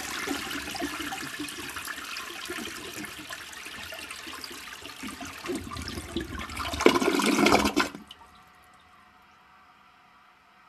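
Toilet flushing: rushing, gurgling water that grows louder about seven seconds in, then cuts off suddenly about a second later.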